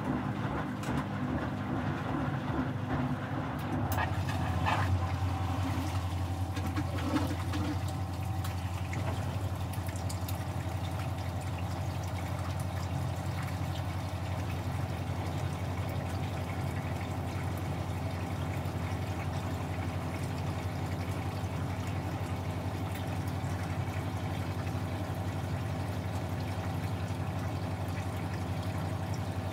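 Washing machine running with water flowing through it, and a steady low hum that sets in about four seconds in.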